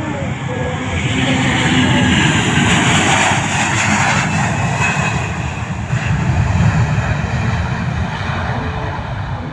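Airliner's engines as it passes close by, a loud rushing roar that swells about two seconds in and eases off, over a steady low rumble.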